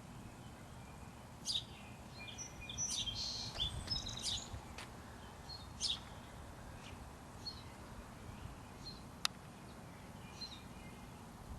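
Small birds chirping and calling on and off, busiest in the first half, over a steady low background rumble, with one sharp click about nine seconds in.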